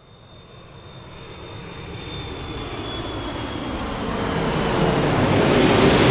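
Airliner cabin noise: a steady rushing of jet engines and airflow with a faint high whine, growing steadily louder.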